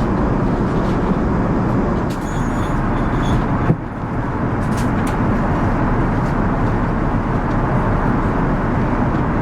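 Steady rushing cabin noise of an Airbus A380 in descent: airflow and engine noise heard inside the cabin. A short click and a momentary dropout come a little under four seconds in.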